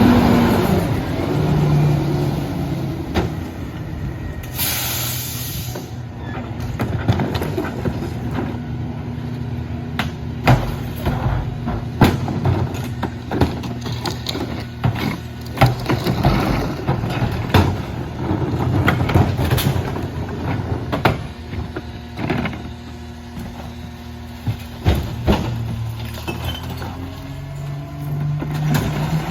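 Mack LR rear-loader garbage truck's diesel engine running steadily, with a short sharp air hiss about five seconds in and repeated bangs and knocks throughout.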